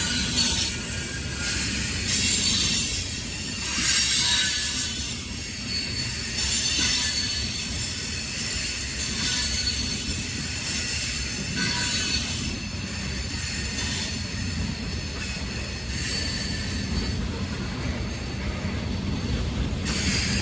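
Loaded coal train cars rolling past: a steady low rumble of steel wheels on the rails, with a high-pitched wheel squeal that comes and goes every couple of seconds.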